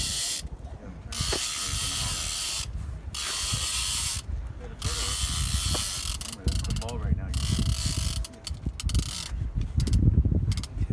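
Big-game conventional fishing reel working under load from a hooked shark: its mechanism ratchets and ticks with a hissing whir that stops and starts several times as line moves.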